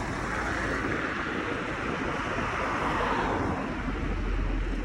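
Rushing wind and road noise heard from a moving bicycle, swelling through the middle and easing near the end, over a low rumble.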